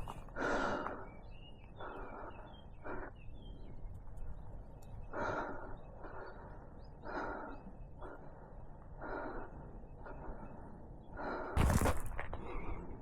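A person breathing heavily, with a breath every second or two and a louder rustling burst near the end.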